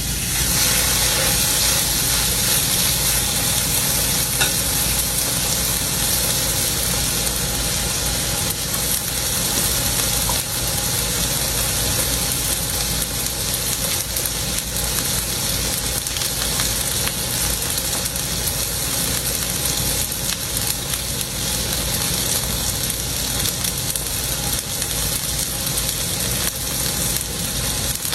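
Steak sizzling in a pan: a steady, even frying hiss over a low steady hum.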